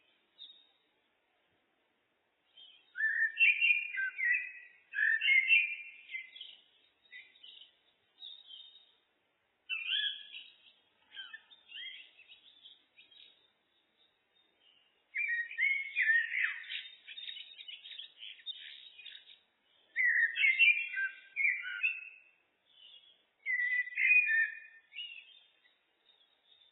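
Common blackbird (Turdus merula) singing: about six warbling phrases with short pauses between them. The longest phrase, about halfway through, breaks into a rapid twitter.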